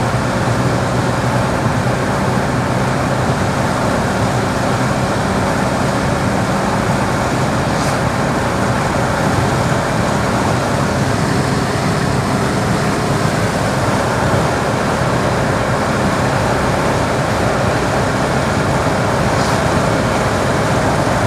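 VAZ-2108's 1.1-litre four-cylinder engine running at a steady, unchanging speed, with a steady rush of noise over it.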